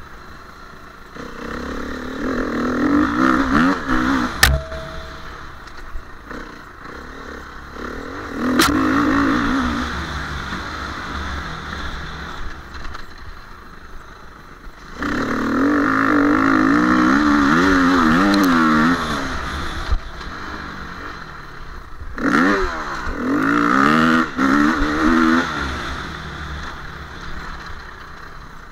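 KTM 350 EXC enduro motorcycle's single-cylinder four-stroke engine being ridden, revving up in four loud bursts of throttle and dropping back to a lower pitch between them, with a few sharp knocks.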